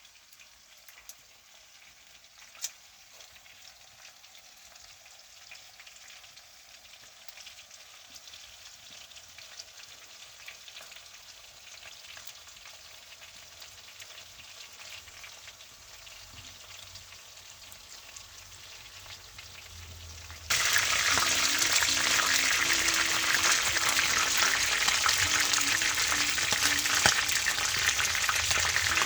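Chicken thighs frying in hot oil: a faint sizzle that slowly grows louder, then suddenly turns into a loud, dense sizzle about twenty seconds in.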